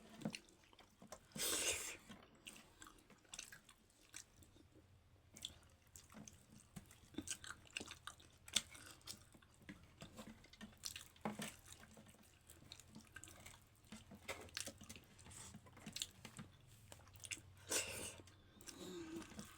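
Close-up mouth sounds of eating soft dhindo and chicken in gravy: quiet chewing with scattered wet clicks and smacks, and two louder noisy bursts, one about a second and a half in and one near the end.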